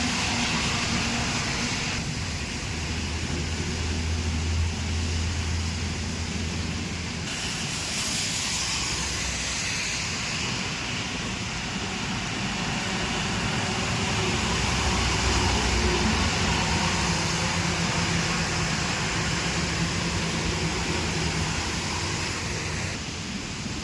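Steady traffic noise, with the low hum of vehicle engines rising and fading as vehicles pass.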